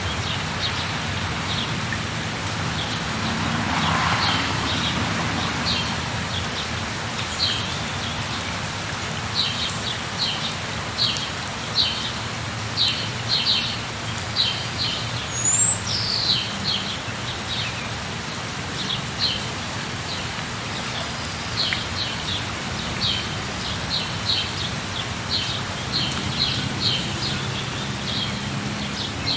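Steady rain falling, with a bird calling over it in short, quickly repeated chirps that come in runs through most of the stretch. The rain swells briefly about four seconds in.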